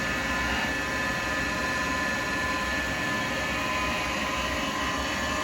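Wood lathe running steadily, with the light hiss of a carbide chisel cutting a spinning acrylic pen blank.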